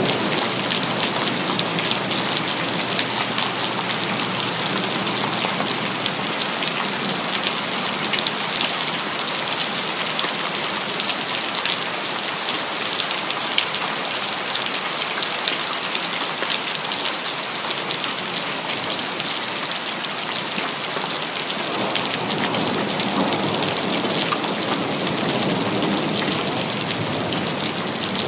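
Steady heavy city rain, a dense patter of drops on hard surfaces. A low thunder rumble dies away at the start, and a softer rumble builds again near the end.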